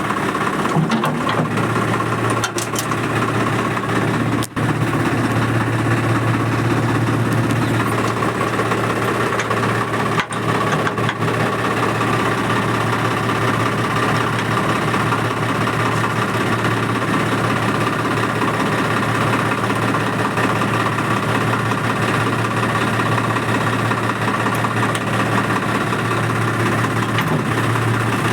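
Swaraj 855 tractor's three-cylinder diesel engine running at idle, settling to a lower speed about a second in and picking up again near the end.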